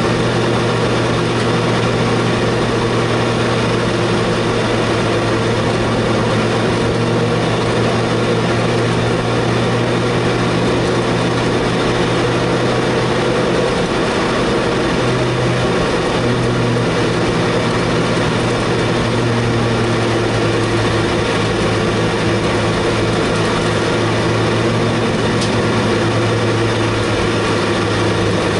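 Honda Prelude race car's engine heard from inside the cabin, running at a steady, unchanging speed with no revving or gear changes, as the car cruises at reduced pace behind the safety car.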